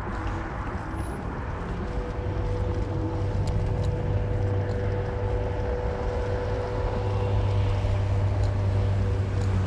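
Car driving on city streets: a steady low engine drone with road and tyre noise, growing a little louder about two seconds in.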